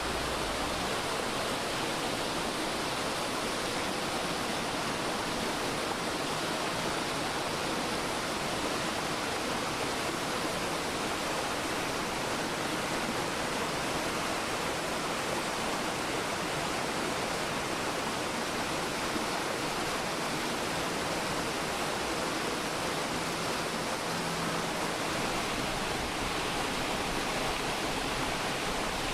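Mountain valley stream flowing over rocks: a steady, unbroken rush of water.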